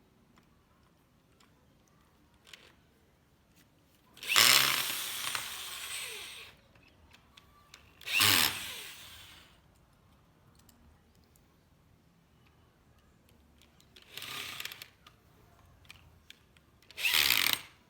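Power drill driving screws into wood to tighten clamps, in four short bursts: the longest, about two seconds, around four seconds in, then others around eight and fourteen seconds and near the end.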